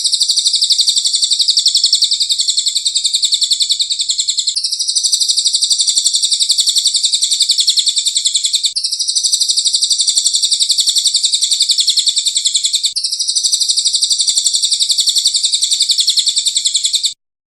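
Recorded bird song: a loud, high, very rapid trill held continuously, repeated in four near-identical runs of about four seconds each, as a looped training recording for songbirds. It cuts off suddenly near the end.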